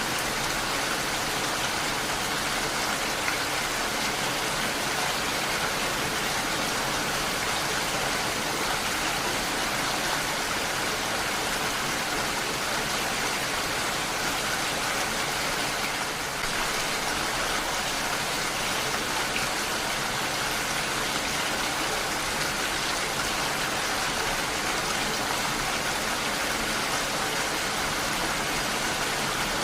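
Heavy rain falling steadily, an even hiss of countless drops with no let-up.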